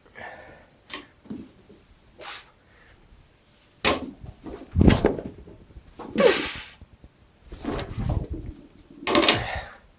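Barbell clean: a sharp clank as the loaded bar comes off the floor, a heavy thud as it is caught, and a strained exhale. The bar is then set down with several dull thuds and followed by hard breathing. The lift ended up more a power clean than a full squat clean.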